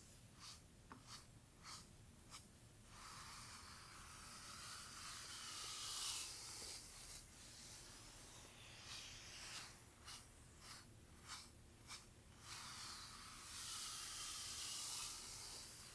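Bristle brush strokes through hair: a run of short quick strokes, about two a second, then a long slow sweeping stroke, the pattern repeating twice.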